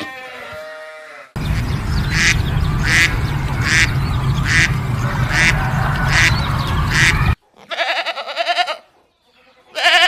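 Farm animal calls: a run of short repeated calls about every two-thirds of a second over a steady low rumble, which cuts off suddenly, followed by two short bleats near the end.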